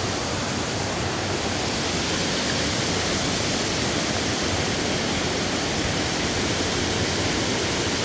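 Water rushing steadily over a shallow river waterfall, an even, unbroken hiss.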